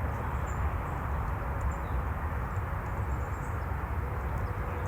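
Steady low rumbling outdoor background noise with no clear single source, and a few faint, short high chirps over it.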